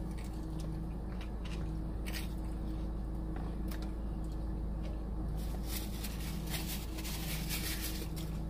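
Close-miked eating sounds: chewing and biting into fried ranch chicken wings, with short wet mouth clicks that come thicker in the second half, over a steady low hum.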